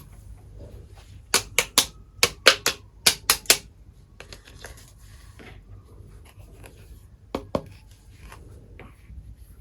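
Small hard toy kitchen pieces clicking and tapping as they are handled: a quick run of about ten sharp clicks, then lighter ticks, and two more clicks near the end.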